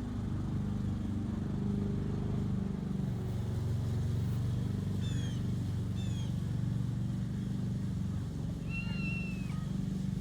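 Kitten meowing once, a single cry that rises and falls, about nine seconds in, over a steady low hum.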